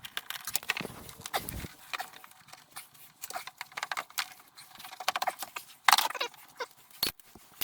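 Irregular clicking, tapping and clinking of hand tools and metal and plastic parts being handled while taking apart a scooter, with a sharper knock about six seconds in.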